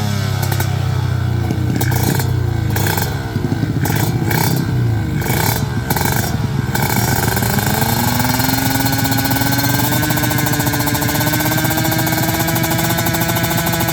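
Racing motorcycle engines. Revs fall away at the start, then come in choppy throttle blips with short cut-outs, then an engine climbs in pitch from about halfway and holds at high revs.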